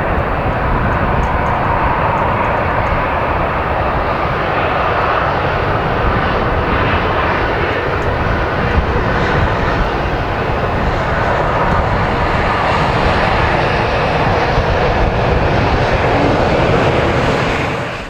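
Loud, steady jet aircraft engine noise that cuts off abruptly at the end.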